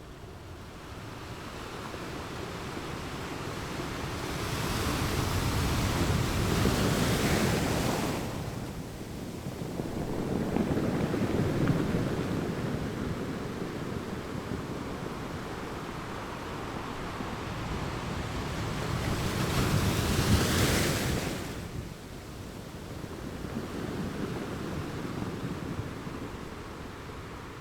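Ocean surf on a beach: a steady wash of waves that swells three times as waves break and rush in, with the loudest surge about twenty seconds in.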